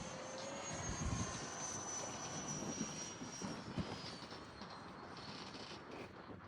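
The electric ducted-fan engine of an RC jet, a Freewing Eurofighter, in flight. Its high fan whine slowly drops in pitch and fades toward the end, with gusty wind rumbling on the microphone.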